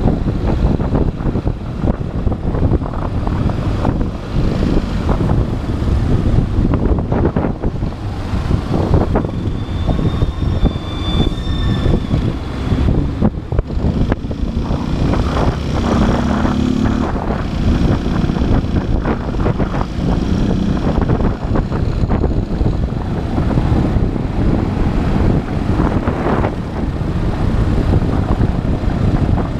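Motorcycle engine running on the move in city traffic, heavy wind rushing over the camera microphone, with other traffic around. A brief high thin tone sounds about ten seconds in.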